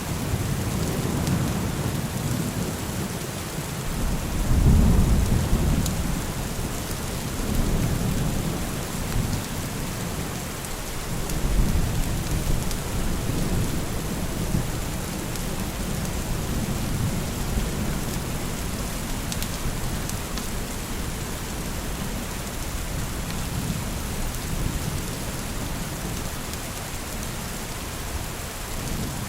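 Steady rain falling, with thunder rolling and rumbling low beneath it. The thunder swells several times in the first half, then settles into a lower rumble.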